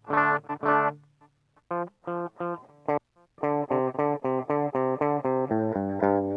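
Electric guitar played through a TC Electronic Flashback delay and looper pedal: a few short chords, then sparse single notes, then a quick even run of plucked notes ending in a slide in pitch.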